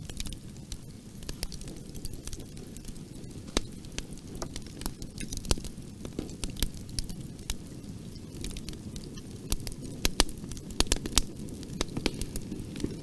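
Fire crackling in a fireplace: sharp pops and snaps over a steady low rumble, with the crackles coming thicker about ten seconds in.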